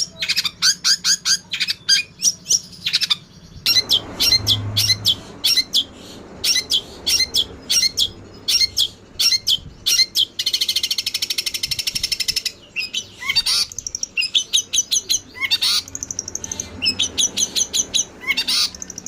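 Eurasian tree sparrows giving excited fighting chirps: quick runs of short, sharp chirps with brief gaps, and a dense buzzy chatter about ten seconds in.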